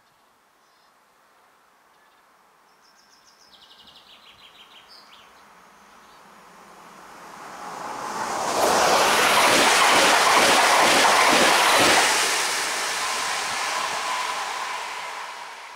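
Rail noise of an electric train: a rushing clatter that swells about eight seconds in, stays loud for several seconds, then eases, with a faint steady whine near the end.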